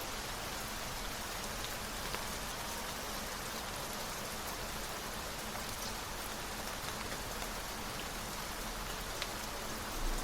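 Steady rain falling: an even hiss with a few faint, scattered drop ticks.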